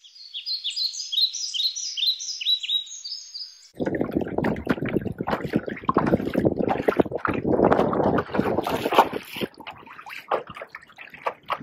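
A bird sings a quick run of high chirps, each sliding down in pitch. From about four seconds in, water splashes and rushes against a kayak's hull as it moves across choppy lake water.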